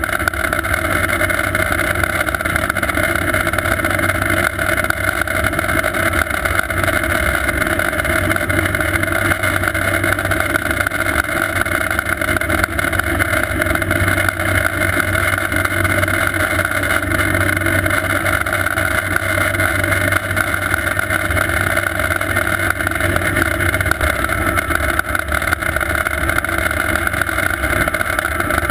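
Sikorsky S-58T twin-turbine helicopter running steadily, a constant high whine over the low rotor noise.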